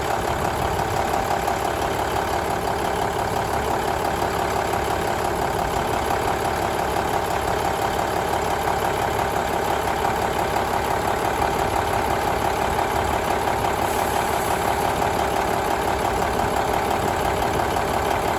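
Cummins N14 CELECT+ inline six-cylinder diesel engine idling steadily.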